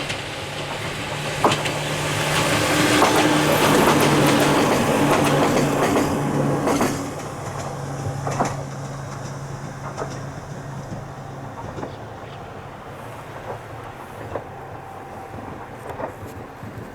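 Ohmi Railway 800-series electric train passing close by, wheels clacking over rail joints with a steady hum from its running gear; it is loudest about four seconds in, then fades away as it moves off.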